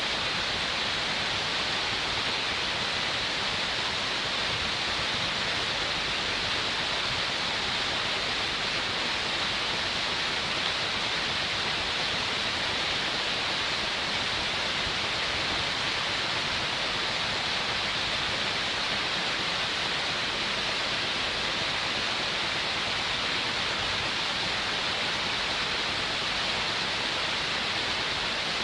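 Waterfall: a steady, even rush of falling water with a bright hiss.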